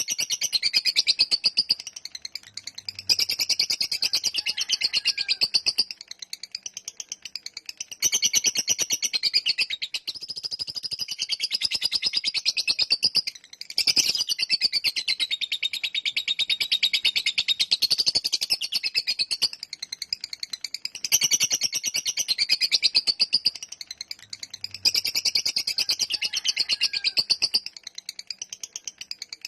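Lovebird giving its long chattering song ('ngekek'): a rapid, high-pitched rattling trill in long bouts of several seconds each, broken by short pauses.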